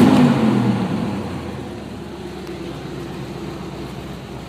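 1985 mud truck's engine running just after a cold start, its revs falling away in the first second or so and then settling to a steady idle.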